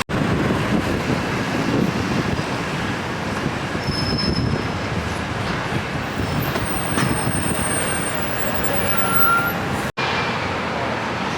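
Outdoor city ambience: a steady rumble of passing vehicles, with a few brief, faint high squeals. The sound drops out for an instant near the end.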